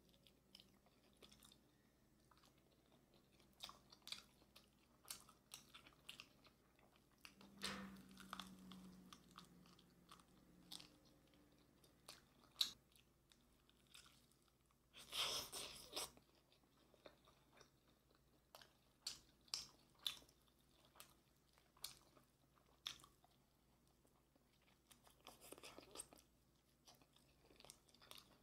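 Crunching bites and chewing of sauce-coated Korean fried chicken (yangnyeom chicken), heard close up as scattered sharp crackles, with a longer, louder stretch about fifteen seconds in.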